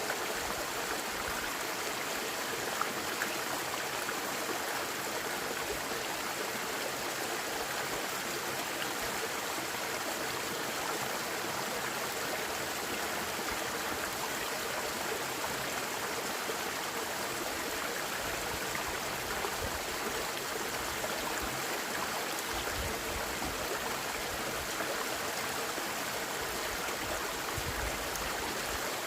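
Valley stream flowing, a steady even rush of water.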